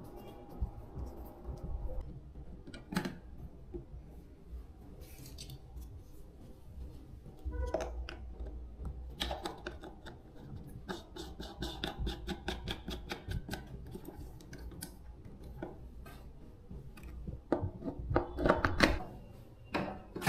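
Hand work with small tools and metal parts: scattered clicks, scraping and snipping, with a run of quick repeated strokes in the middle and a few louder knocks near the end.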